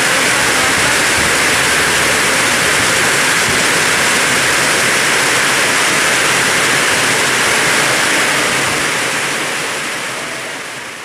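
Heavy rain pouring in a steady downpour, an even rushing hiss that fades away over the last few seconds.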